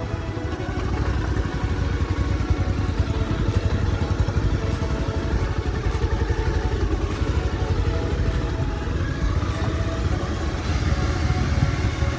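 Motorcycle engine running while the bike is ridden, a steady, rapid, even pulsing.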